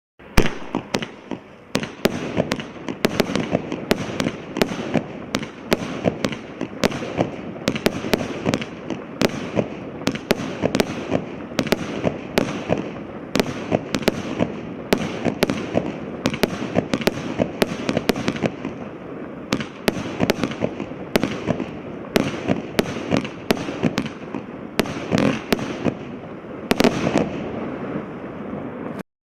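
Hallmark Rebel Yell 36-shot firework cake firing: a long run of sharp bangs, about one to two a second, over a steady hiss and crackle. The shots come thicker and louder near the end in the finale.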